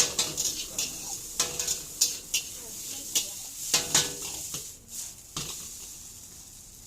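Chow mein being stir-fried: a metal utensil scrapes and clanks irregularly against the pan over the sizzle of frying food. The clatter dies away near the end.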